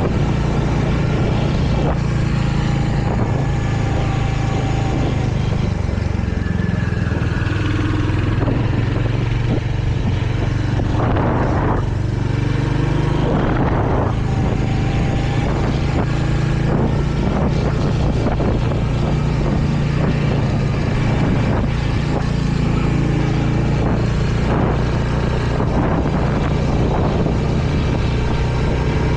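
Royal Enfield Hunter 350's 349 cc single-cylinder engine running under way, a steady low exhaust note that drops and rises in pitch as the speed changes. A brief rush of noise comes about halfway through.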